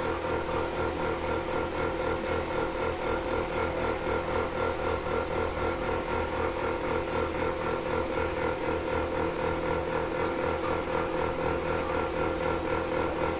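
Milking machine running: a steady motor hum with a regular, even pulsing, several beats a second.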